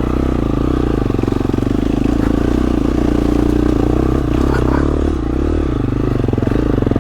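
Dirt bike engine running hard at steady, high revs, with a fast pulsing exhaust note that wavers briefly about four to five seconds in, as the bike is pushed up through rocks.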